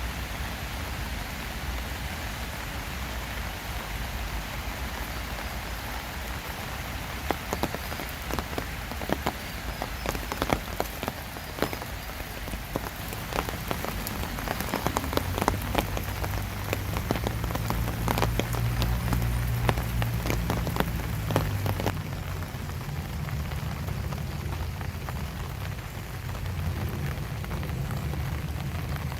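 Steady rain falling, with a dense run of sharp drip taps on a surface through the middle of the stretch. A low steady rumble joins in about halfway through.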